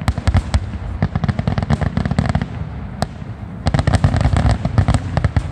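Aerial fireworks shells bursting over a low rumble, with dense runs of crackling. A single sharp crack comes about three seconds in, then another thick run of crackling.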